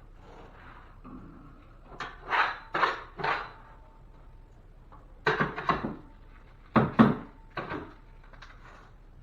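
Drywall taping work on a ceiling patch: three clusters of short scraping and crackling handling noises, a few strokes each, over a low steady background.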